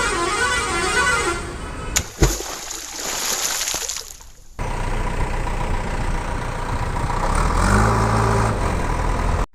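Toy truck sound effects cut together: a warbling electronic tone at first, then after a sudden cut and click a steady noisy engine-like sound, with a short horn-like toot about eight seconds in.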